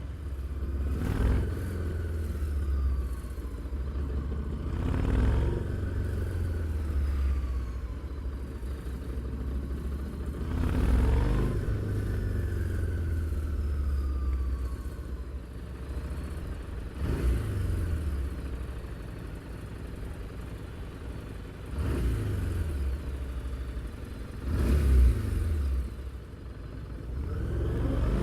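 Harley-Davidson Street 750's liquid-cooled V-twin engine and exhaust on the move, running low in the revs with several short throttle openings where the sound swells and then drops back.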